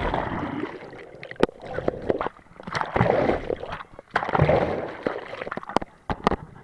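Sea water splashing and sloshing in several loud bursts, with sharp clicks in between.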